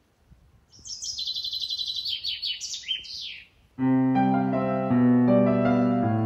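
A songbird sings a fast, high, trilling phrase of rapid notes. About four seconds in, gentle piano music comes in with sustained chords.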